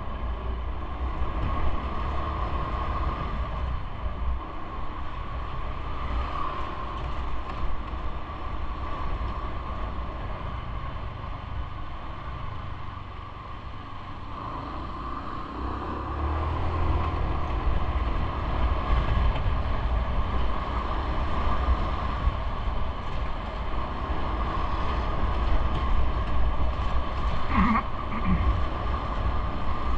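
Continuous rumbling travel noise of something moving, with a steady hum over it; it eases off in the middle and picks up again after about sixteen seconds. A short sharp squeak comes near the end.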